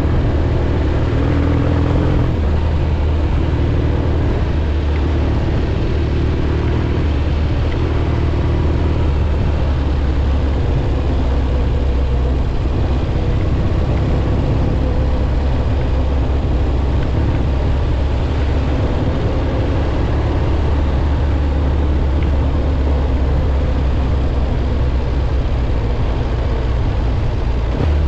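1967 Triumph Bonneville T120's 650 cc parallel-twin engine running at a steady cruise on a gravel road, with a constant rush of wind and road noise on the helmet-mounted camera. The engine note shifts a little about a third of the way in, then holds steady.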